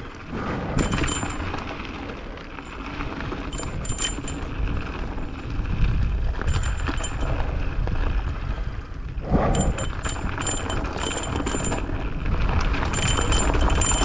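Mountain bike riding fast along a dirt trail: wind rushing over the microphone and the tyres and frame rumbling and rattling, with patches of a high buzz.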